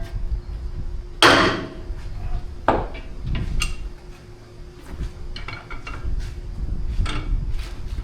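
Hammer blows on steel, the taper-lock hub of a John Deere 730 being driven home between turns of its nut. There are several irregular, ringing strikes; the loudest comes about a second in, and a quick cluster follows past the middle.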